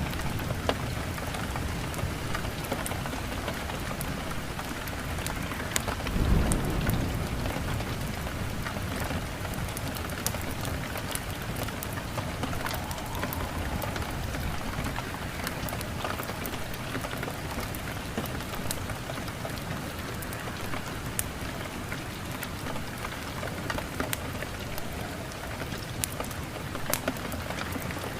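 Steady heavy rain with a low roll of thunder swelling about six seconds in, and scattered sharp crackles throughout.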